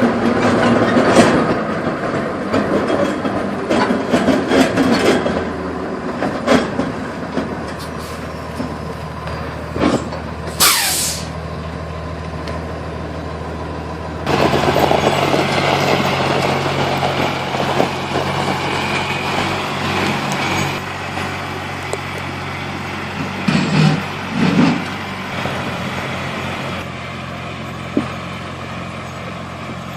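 Heavy truck engine running steadily, with scattered knocks and clanks and a short hiss of released air about ten seconds in. The engine note steps up about fourteen seconds in.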